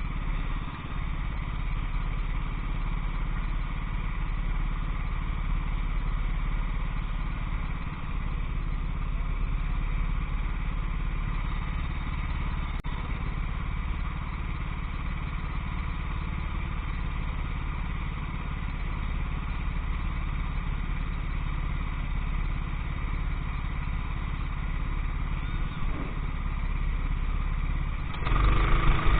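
Go-kart engine running at a fairly steady pitch, getting louder about a second before the end.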